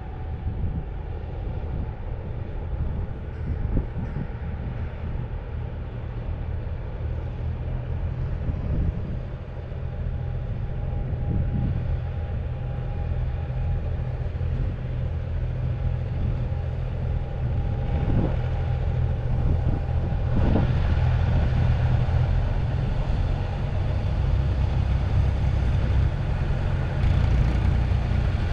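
Vintage tractor engines running steadily, growing louder about two-thirds of the way through.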